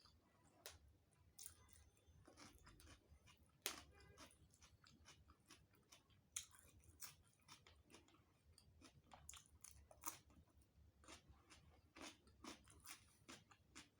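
Close-miked eating sounds: chewing with wet mouth clicks and irregular crisp crunches, one sharper crunch a little under four seconds in.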